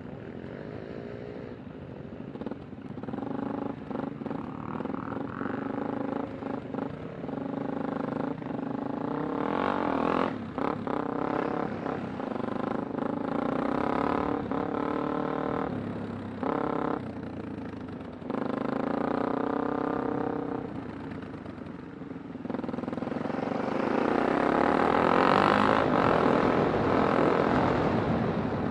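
Kawasaki Super Sherpa's 250 cc single-cylinder engine pulling the bike along, its note rising and falling as the throttle opens and closes, with several short dips in level.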